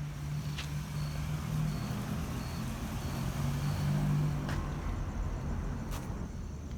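A motor vehicle driving past: a low engine hum that grows louder to a peak about four seconds in, then fades.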